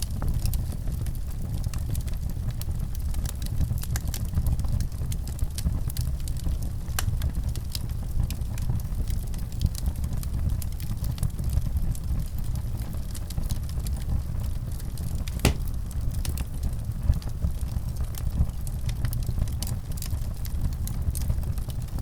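Wood fire burning in a fireplace: irregular crackles and pops over a steady low rumble, with one sharper pop about two-thirds of the way through.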